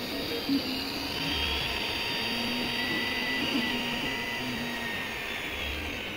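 Sunlu S8 FDM 3D printer running a print: steady whirring from its cooling fans, with its stepper motors giving short low notes that keep changing pitch as the print head moves.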